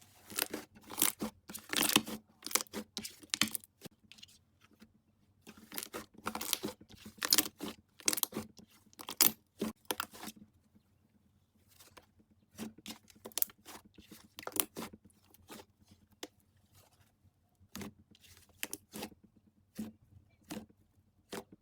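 Slime being squeezed and pressed by hand, giving runs of sharp crackling and popping clicks with short pauses between handfuls.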